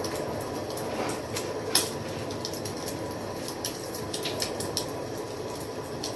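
Wood fire crackling: irregular sharp pops and snaps over a steady low hiss, with the loudest pop a little under two seconds in.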